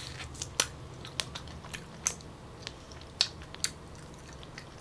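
A person biting into and chewing Musang King durian flesh close to the microphone: faint, irregular mouth clicks and smacks, about a dozen over the few seconds.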